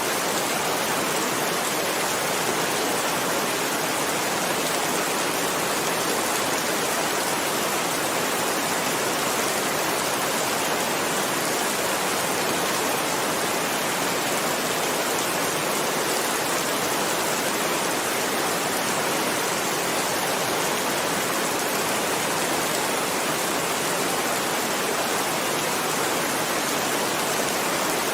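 Heavy rain falling steadily, an even, unchanging hiss with no thunder or single drops standing out.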